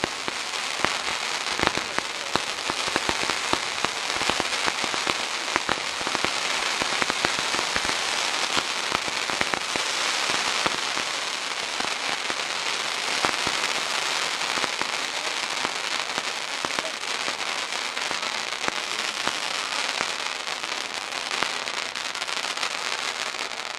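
Niagara-falls set-piece firework, a long line of falling-spark fountains, burning together with ground fountains shooting sparks upward: a dense, steady hiss of sparks with many sharp crackles and pops. The sound cuts off suddenly at the very end as the set piece burns out.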